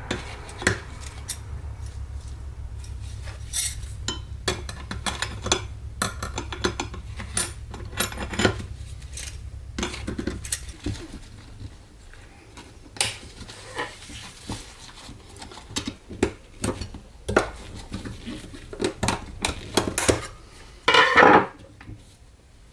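Small metal parts and tools clinking and clattering against each other in many irregular knocks, with a low steady hum that stops about halfway through. A louder, longer metallic rattle comes near the end.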